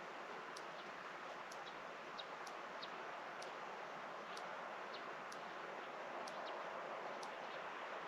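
Quiet rural outdoor ambience: a steady rustling hiss with a few faint, short, high bird chirps, and a faint sharp tick repeating about once a second.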